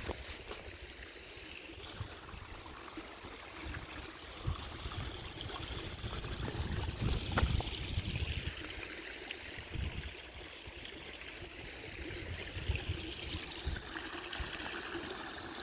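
Running water of a small waterfall and its stream, a steady rushing hiss that swells a little midway and again near the end, with occasional low thumps underneath.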